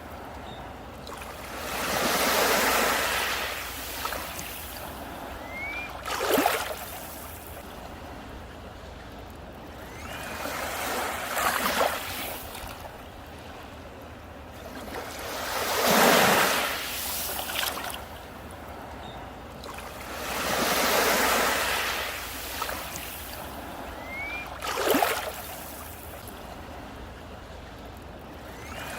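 Sea waves breaking on a beach and washing up the shore, the surf swelling and fading every four to five seconds, with sharper short splashes in between.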